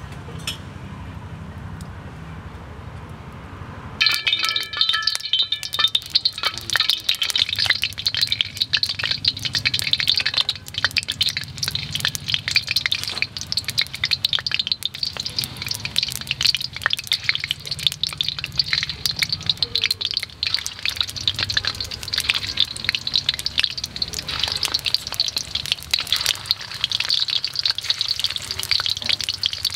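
Fish-paste meatball rolls frying in hot oil in a steel wok: a dense crackling sizzle that starts suddenly about four seconds in and keeps going steadily.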